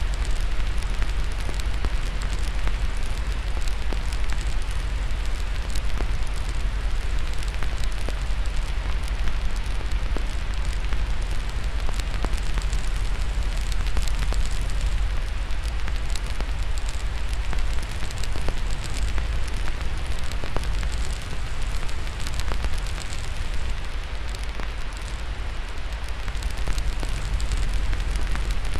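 Crackling fire mixed with steady white noise: a continuous hiss scattered with many small pops and crackles over a deep, steady rumble.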